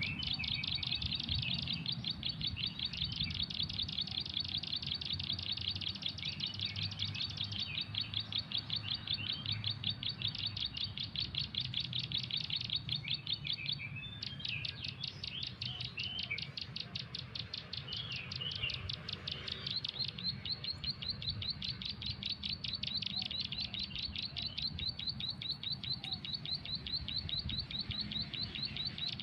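Bird chirping played back as a lure call from a phone's MP3: a fast, very even train of high chirps that breaks off briefly about halfway and resumes, over a low steady rumble.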